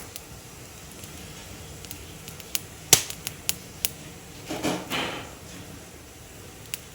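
Wood fire crackling: scattered sharp snaps and pops at irregular intervals, several close together around the middle, with a brief softer rushing sound just after them.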